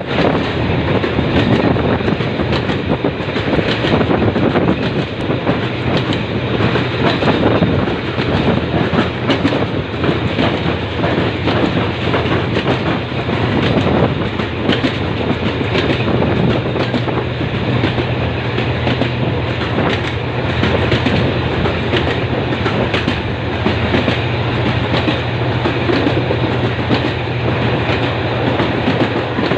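Suburban passenger train running at speed: a steady rumble with the wheels clattering over the rail joints, over a low steady hum.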